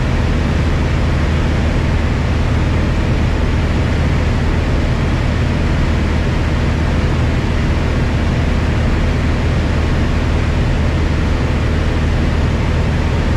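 Piper Cherokee 180's four-cylinder Lycoming engine and propeller running at a steady power setting, heard inside the cabin as a loud, even drone with a deep hum and air rush. The engine is newly installed and being broken in.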